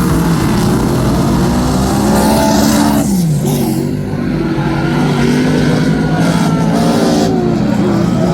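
Superstock race cars' V8 engines running hard together on a speedway track, several engine notes overlapping, with one dropping in pitch about three seconds in.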